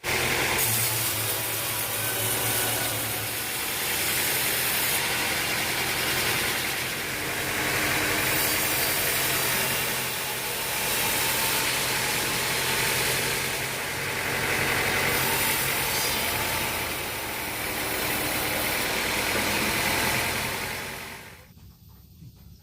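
Sawmill machinery running: a steady engine hum under a loud hissing noise that swells and eases every few seconds, cutting off sharply near the end.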